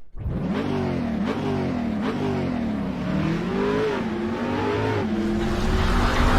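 Car engine revving, its pitch rising and falling again several times in quick succession.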